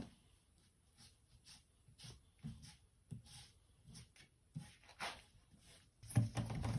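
Faint, irregular brush strokes and handling noises as Citrus Strip paint stripper is spread onto a painted wooden nightstand, with a louder scuffing stretch near the end.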